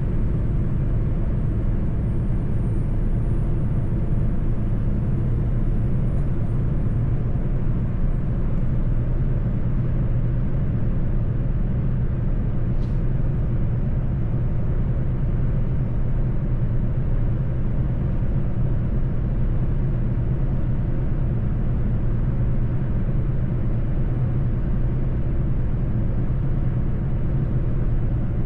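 Mercedes-Benz truck's diesel engine running steadily under way, with a constant low drone and road rumble.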